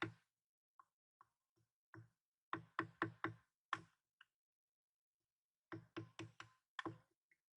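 Quick runs of sharp wooden knocks, about four or five strikes a second: firewood being struck while it is split for a campfire. There are two such bursts, one a few seconds in and one near the end.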